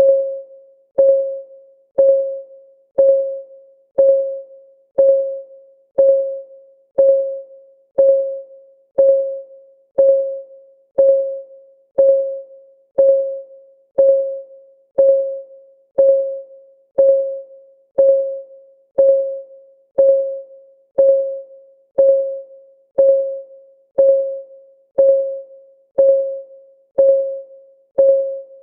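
Countdown timer's clock ticking sound: one short tick every second, each a sharp click with a brief pitched ring that dies away quickly, in a steady, even rhythm.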